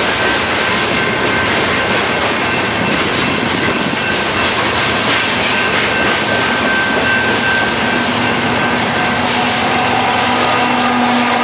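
Freight train cars rolling past: a steady loud rush of steel wheels on rail, with faint thin squealing tones from the wheels.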